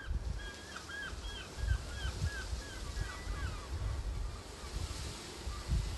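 Wind buffeting the microphone in uneven low gusts. Over it, in the first half, a bird sings a run of short repeated whistled notes, about three a second.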